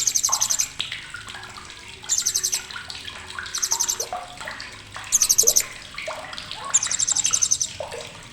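Blue-crowned hanging parrot (srindit) giving sharp, very high, rapid chattering trills, five short bursts of about half a second each, with softer lower chirps between them.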